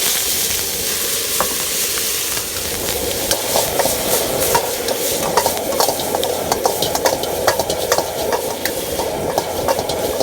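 Food sizzling loudly in hot oil in a wok, with many sharp clicks and scrapes of a metal utensil against the pan: stir-frying. The sizzling cuts off suddenly near the end.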